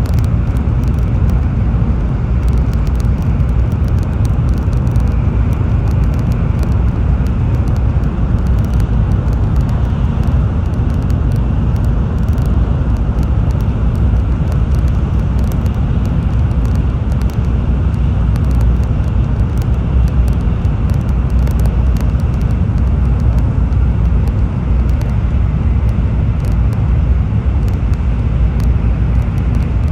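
Steady low rumble of a Tokaido Shinkansen train running at speed, heard inside the passenger cabin: wheels, track and air noise as an even drone.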